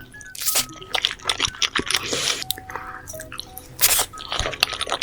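Close-miked wet eating sounds from a person eating saucy seafood: irregular lip smacks, sucking and slurping clicks.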